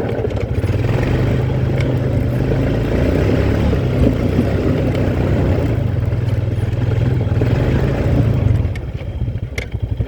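Quad bike engine running steadily; near the end it eases off and drops to an even, pulsing idle.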